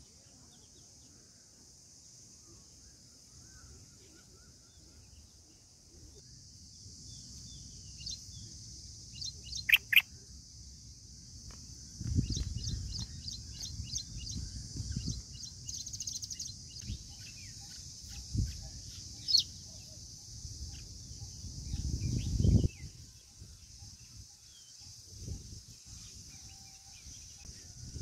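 Birds chirping in short calls, with two sharp, loud chirps about ten seconds in and a quick run of ticking calls after, over a steady high-pitched hiss. Low rumbles come in around twelve seconds and again near twenty-two seconds.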